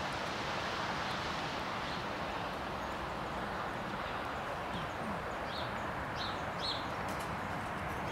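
Steady outdoor background noise with a few short, high bird chirps in the second half.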